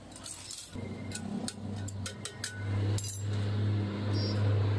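Light metallic clinks and taps in a metal workshop, over a steady low electric hum that starts about a second in and grows louder.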